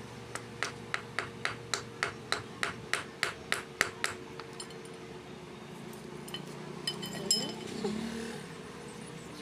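A quick, even series of about fourteen hammer strikes on metal, about four a second, stopping after roughly four seconds, followed by a few loose metal clinks.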